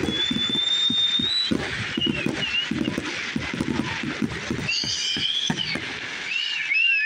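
Fireworks going off in rapid succession: dense crackling and popping, with high whistling tones over it that hold steady, rise and warble.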